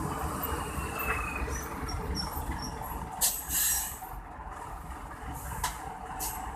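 Heavy truck traffic rumbling past, with a loud hiss of air released from a truck's air brakes about halfway through and two shorter hisses near the end.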